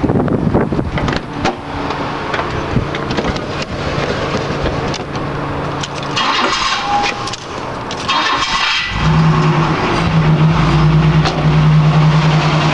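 Chevrolet Celebrity engine stumbling and coughing when the throttle is pressed, running raggedly and nearly dying, then settling into a steady, stronger run about nine seconds in. The hesitation is a new fault that the owner suspects may be the throttle position sensor.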